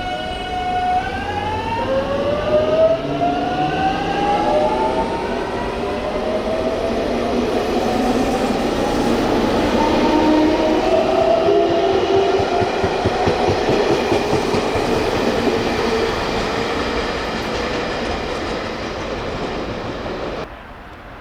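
Electric train pulling away: its inverter-driven traction motors whine in several stacked tones that rise steadily in pitch as it accelerates, over rolling wheel-on-rail noise. The sound cuts off suddenly near the end.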